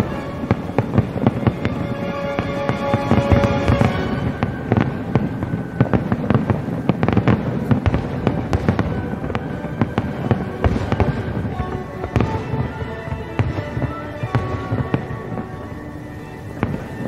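Aerial firework shells bursting in rapid succession, a dense run of bangs and crackles, over music with held tones.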